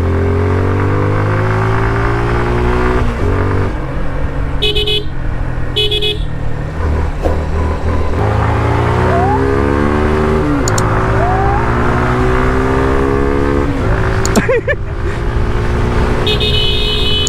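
Motorcycle engine pulling up through the gears while riding, its pitch climbing and then dropping back at each shift, with wind rush. A horn gives two short beeps about a second apart near the middle and a longer honk near the end.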